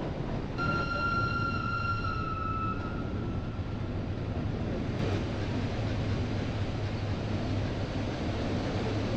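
Glacier Express train running, a steady low rumble of the carriage on the rails heard from inside. Under a second in, a high steady tone with overtones sounds for about two seconds, then sags a little in pitch and fades.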